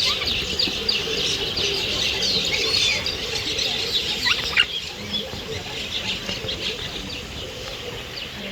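Dense chorus of many birds chirping at once, with one louder call standing out about four and a half seconds in.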